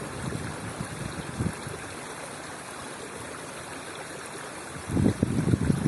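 A steady outdoor rushing noise. Low wind buffeting on the microphone comes in about five seconds in and is louder than the rushing.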